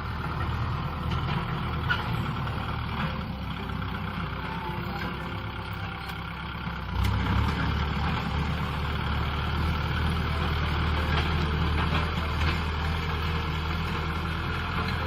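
Kubota M6040 SU tractor's diesel engine running steadily under load while ploughing, getting louder about seven seconds in.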